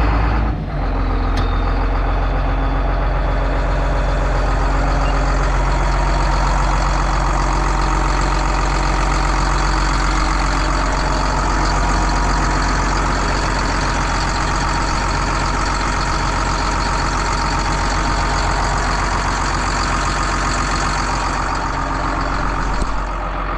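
Bulldozer's diesel engine running steadily with a heavy, low drone. Near the end it drops to a quieter, lower note.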